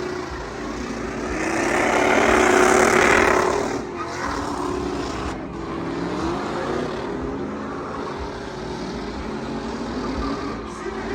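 Vehicle engines revving and running, with a loud rush of noise as a vehicle passes about two to three seconds in, then engines running on more steadily.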